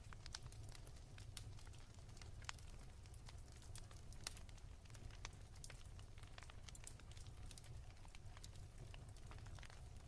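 Wood fire crackling softly in a fireplace: faint, irregular small pops and snaps, a little stronger about four seconds in, over a steady low rumble.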